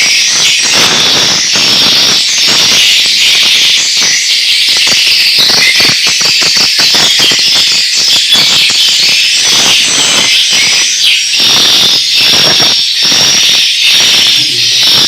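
Dense, continuous high-pitched twittering of many swiftlets over a fast, irregular clatter of clicks: swiftlet calling and roosting sound of the kind played to draw swiftlets into a nesting house.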